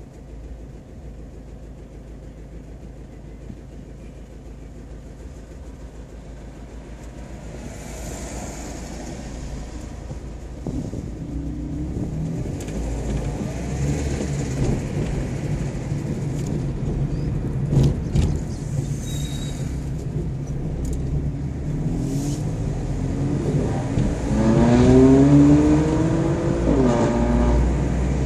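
Car engine and road noise heard from inside a moving car, growing steadily louder. Near the end an engine accelerates hard, its pitch rising in two quick sweeps, the second after a gear change.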